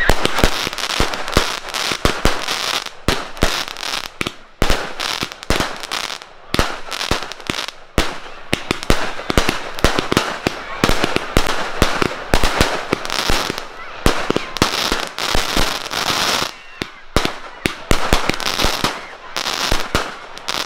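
Aerial fireworks going off in a fast, continuous string of bangs, several a second, with hissing and crackling between the reports.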